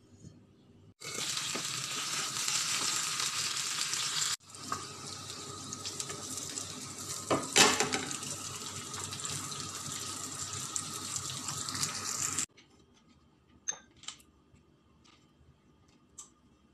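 Chicken frying in a pan: a steady, dense sizzle with one louder crackle partway through. It stops suddenly, leaving near quiet with a few faint clicks of a spoon in a bowl.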